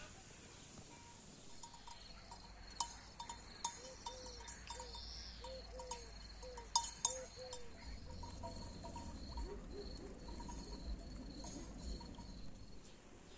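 Faint country ambience: an insect, likely a cricket, chirping steadily at a high pitch, with a few sharp clicks and a short run of low, arched calls partway through.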